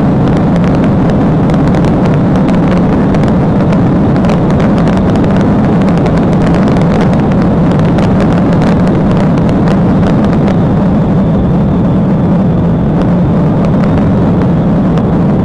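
Vehicle at high speed in a pursuit: a loud, steady rush of engine and road noise that holds level throughout.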